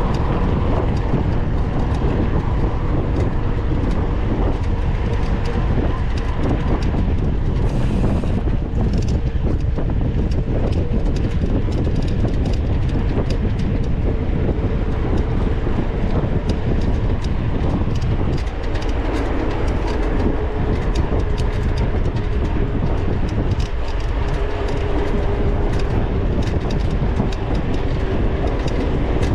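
Onboard sound of a mountain bike being ridden over rough ground: a steady low rumble with constant rattling clicks and knocks from the bike.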